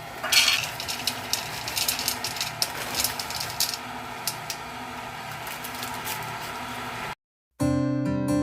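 KitchenAid stand mixer running steadily with its ice cream maker attachment churning, a steady motor hum. Sharp rattles and clicks come over it in the first half. The sound cuts off near the end and strummed acoustic guitar music begins.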